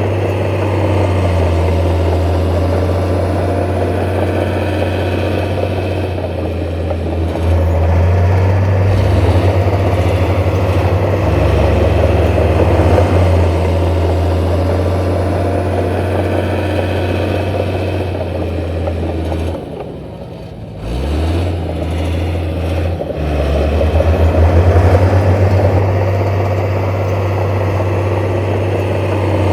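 Heavy diesel engine of earthmoving machinery running steadily with a deep drone. About twenty seconds in it dips briefly, then comes back up with a short rise in pitch.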